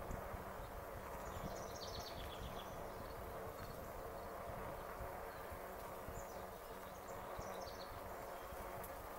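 A songbird chirping in two quick runs of short, high notes, over the steady rumble of wind and rolling noise from an e-bike in motion.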